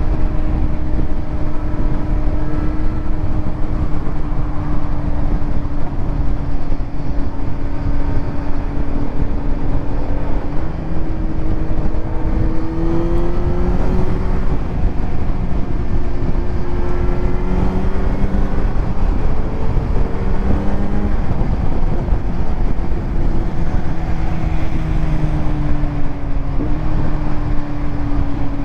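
Kawasaki Z900 inline-four running through a titanium Arrow exhaust while riding. The engine note drifts up and down with the throttle and drops suddenly near the end. Heavy wind rumble on the rider's microphone sits underneath.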